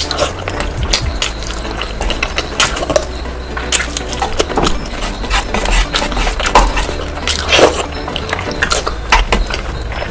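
Close-miked eating of curry and rice: irregular wet chewing and mouth smacks, with clicks against the plate. A steady low hum runs underneath.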